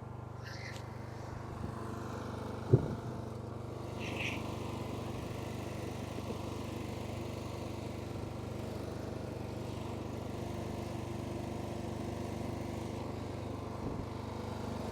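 Lawn mower engine running steadily, with one sharp knock about three seconds in.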